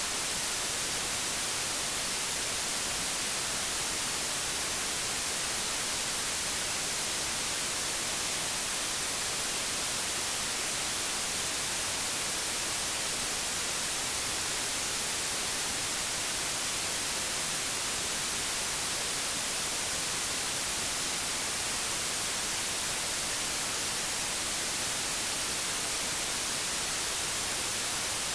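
Analogue television static: a steady, even hiss weighted toward the high frequencies, with no change in level.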